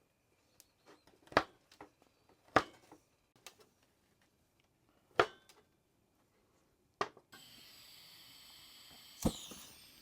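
A handful of sharp, separate knocks and clinks, like hard objects being handled and set down, with softer ticks between them. About seven seconds in a steady hiss starts abruptly.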